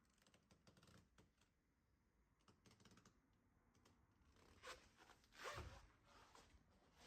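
Near silence, with faint scattered clicks and rustles; the loudest is a brief rustle about five and a half seconds in.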